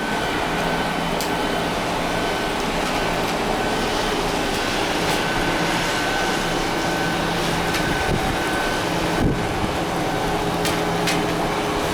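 Steady rain falling, with scattered sharp drips or splashes and a steady hum underneath.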